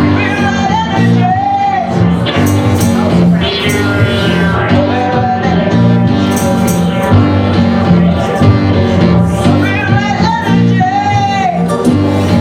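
Live band music with a steady beat and a sung or lead melody line, tambourine among the instruments.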